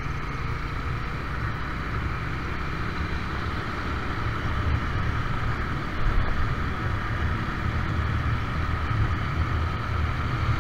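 Steady road noise from a moving vehicle in traffic: a low engine and tyre rumble with an even hiss above it, briefly a little louder about six seconds in.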